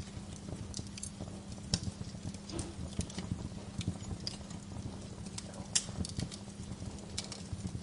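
Bonfire burning: irregular sharp crackles and pops of burning logs over a low, steady rumble of the flames.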